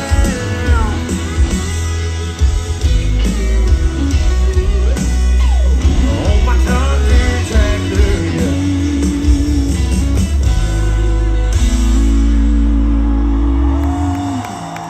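Live country-rock band playing, with electric guitar lines over a heavy bass; the level drops near the end.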